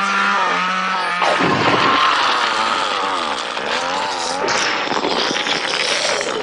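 A chainsaw in a film soundtrack revving and running at high speed. About a second in, it turns into a harsher, noisier sound whose pitch wavers up and down.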